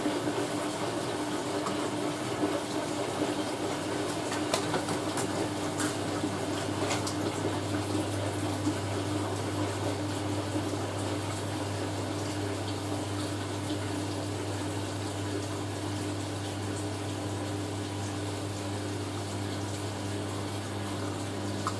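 Hoover A3060 Electronic 1100 washing machine running water through between spins, a steady rushing of water over a constant hum that grows stronger about seven seconds in. A few light ticks come near the start.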